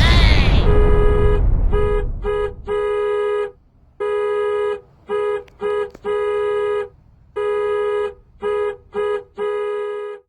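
A loud noisy burst in the first second, then a single buzzy electronic horn-like tone at one fixed pitch, sounded in a run of short and long blasts with gaps between them.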